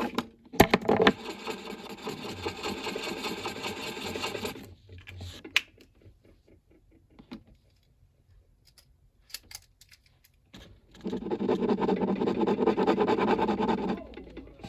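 Two bursts of steady mechanical whirring from a small motor, each lasting about three to four seconds, with faint clicks in the gap between them.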